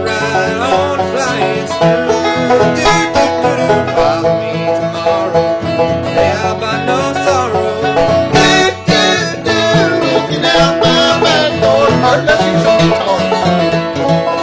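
Banjo and guitar picking a bluegrass instrumental together, with a brief dip a little past halfway.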